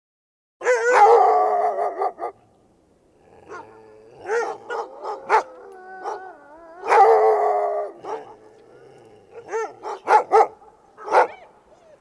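Dog barking and howling: two long, wavering howls with shorter barks between and after them.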